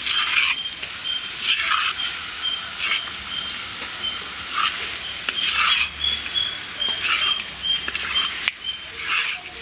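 Chicken and masala frying and sizzling in a pan, stirred with a spatula in scraping strokes about once a second or so, as the mappas masala roasts.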